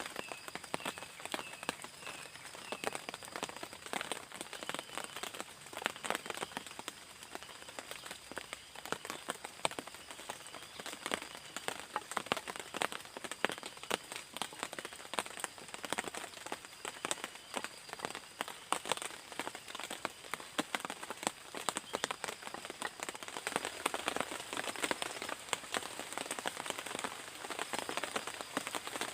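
Heavy tropical rain falling, with a dense, steady patter of drops hitting close by. A few short chirps sound in the first few seconds.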